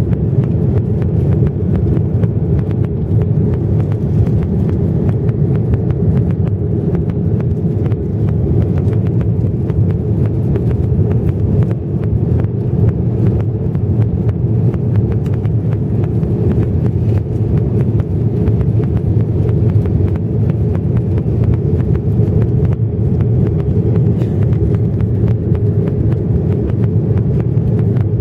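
Airbus A330-300 cabin noise in flight: a loud, steady, low rumble of engines and airflow that does not change.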